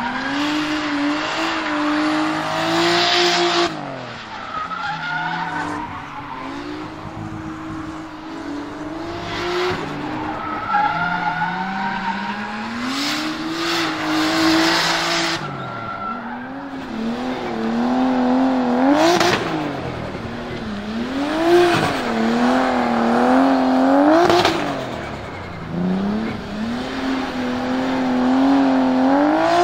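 Nissan Skyline R33 GTS-T's turbocharged RB25DET straight-six being worked hard in a drift, its revs climbing and dropping over and over, with tyres squealing as the car slides.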